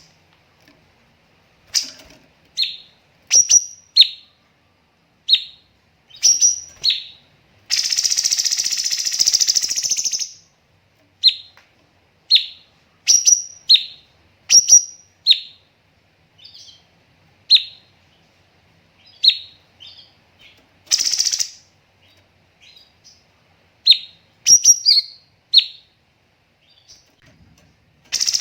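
Cucak cungkok singing: a series of short, sharp chirps, each dropping quickly in pitch, at irregular spacing, broken by a harsh rasping burst about two seconds long near 8 seconds in and a shorter one around 21 seconds.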